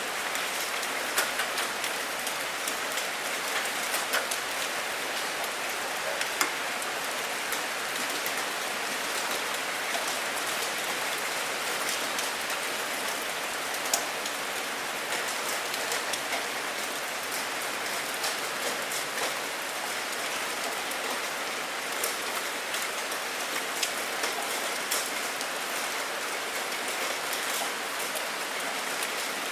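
Steady rainfall, with the close patter of individual drops landing on a surface as frequent light ticks.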